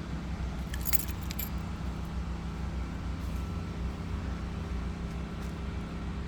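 Keys jingling in a short cluster about a second in, with a few fainter clinks later, over a steady low mechanical hum like an idling engine.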